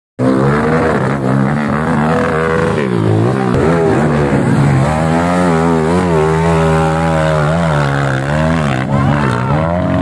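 Trail motorcycle engine revving, its pitch rising and falling again and again under a steady low drone. The sound drops out for a split second right at the start.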